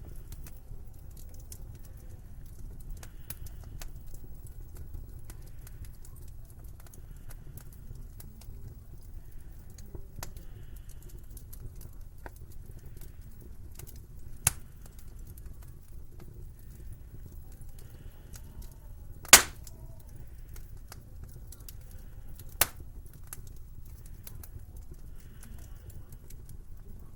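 Wood fire crackling in a fireplace, with irregular small ticks over a low steady rumble. There are three sharp pops: one about halfway through, a louder one a few seconds later, and a third soon after.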